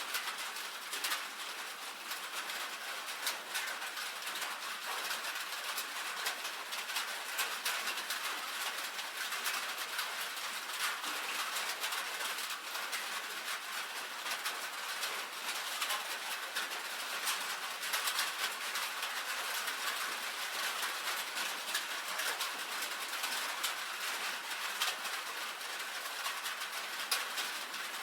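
Rain on a tin roof: a steady hiss of rainfall with a dense, irregular patter of small sharp drop ticks on the metal.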